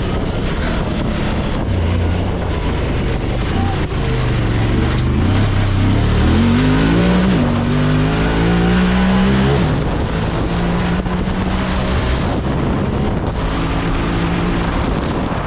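Side-by-side UTV engine running hard over a steady rushing noise. It revs up in pitch from about six seconds in and falls off sharply near ten seconds, then runs on at a steadier pitch.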